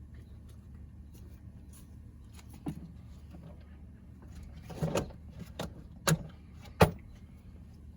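Several separate sharp knocks and clicks of hand work on car interior parts and tools, the loudest one about seven seconds in, over a low steady hum.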